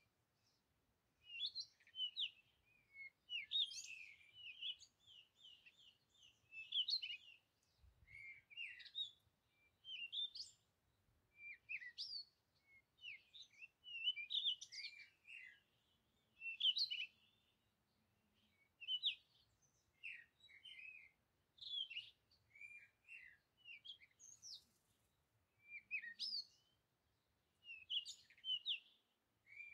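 Birds chirping and twittering: short, quick notes in clusters every second or two.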